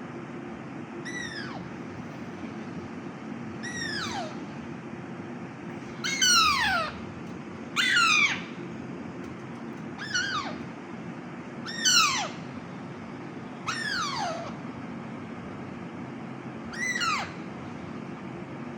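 Alexandrine parakeet ('Raw' parrot) calling while being hand-fed: eight short calls, each falling sharply in pitch, spaced roughly two seconds apart and loudest in the middle, over a steady low room hum.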